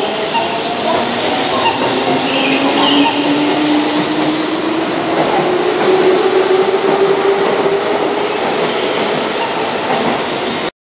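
Keihan 2400 series electric commuter train pulling out of the station and gathering speed, its motor hum rising slowly in pitch over wheel and rail noise. The sound cuts off suddenly near the end.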